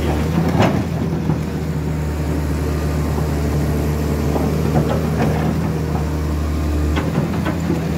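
A vehicle engine running steadily with a deep, even hum, broken by a few short knocks or clatters, and a brief dip in the hum about seven seconds in.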